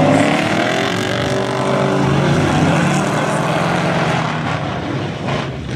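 A pack of dirt-track race trucks accelerating hard on a green-flag restart, several engines running at high revs together, their pitch climbing early on. The sound fades as the pack pulls away near the end.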